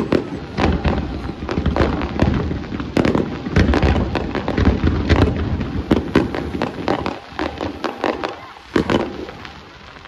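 Fireworks display: rapid, overlapping bangs and crackles that thin out over the last few seconds, with one last loud bang about nine seconds in.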